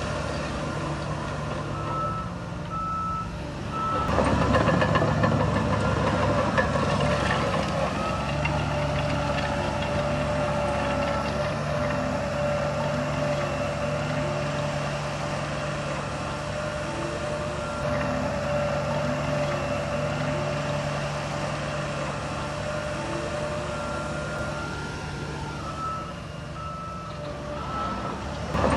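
Heavy diesel earthmoving machine running, with a reversing alarm sounding short repeated beeps near the start and again near the end. The engine gets louder about four seconds in.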